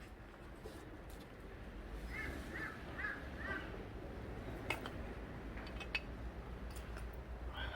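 A bird calling four times in quick succession, with another call near the end, and a few sharp clicks in between over a low steady hum.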